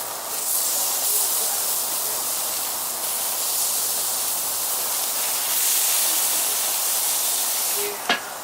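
Filet mignon steaks sizzling steadily as they cook, with a sharp click near the end.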